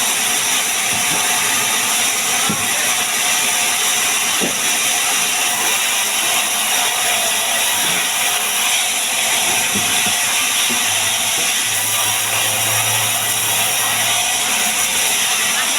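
Power woodworking tool running steadily, an even, loud hissing noise without breaks. A low hum joins in from about eleven seconds in for a few seconds.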